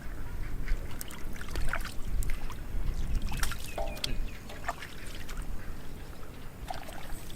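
Water splashing and sloshing with scattered small knocks, over a steady low rumble.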